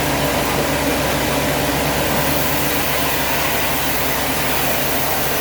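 An engine running at a steady speed, a constant low hum under a broad even hiss.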